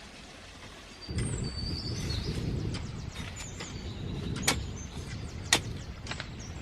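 Wind buffeting the microphone, a gusty low rumble that starts about a second in, with birds chirping high and a few sharp clicks, the loudest two near the end.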